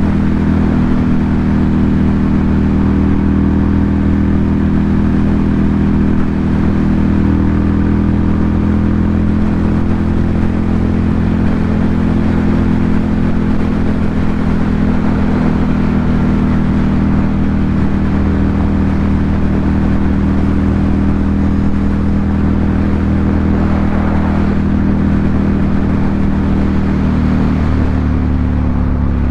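Ducati Monster 797's air-cooled L-twin engine running through an SC Project aftermarket exhaust, holding a steady engine speed, with a slight drop in pitch near the end.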